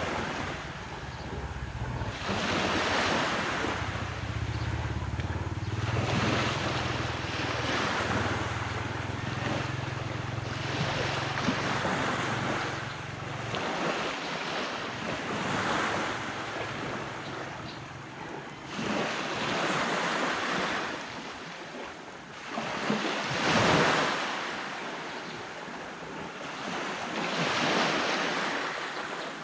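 Ocean waves breaking and washing up a beach in slow surges every few seconds, with wind. A low steady hum runs beneath the surf and stops about halfway through.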